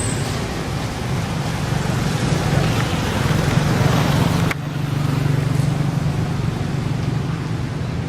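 Steady engine hum and road noise from passing motor traffic, with an abrupt break about four and a half seconds in.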